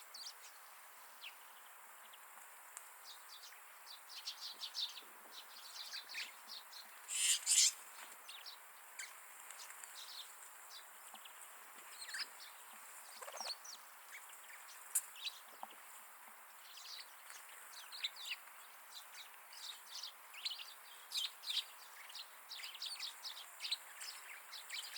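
A flock of wild winter birds calling, with many short high chirps and tweets in quick, irregular runs. There is a louder burst of calls about seven seconds in.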